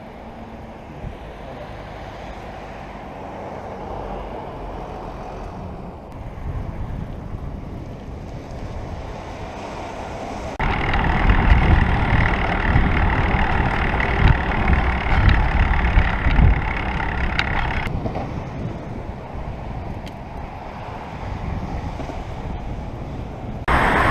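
Wind rushing over the microphone with road and traffic noise during a bicycle ride. It jumps sharply louder about ten seconds in, drops back a few seconds later, and jumps again just before the end.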